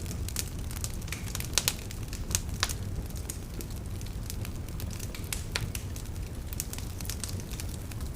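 Fire crackling, with irregular sharp pops and snaps over a steady low rumble; the loudest pops come about one and a half and two and a half seconds in.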